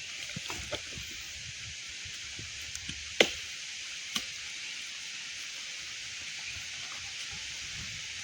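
Steady rain falling as an even hiss, with a few sharp knocks, the loudest about three seconds in.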